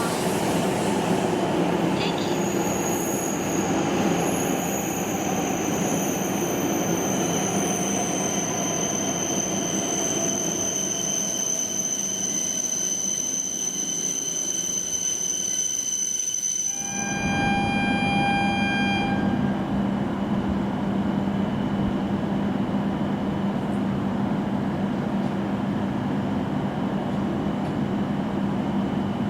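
Shinkansen bullet train running at a station: steady rolling noise with a high electric whine of several steady tones. About two-thirds of the way through the sound changes abruptly to a lower, steady train rumble with a brief pitched hum for a couple of seconds.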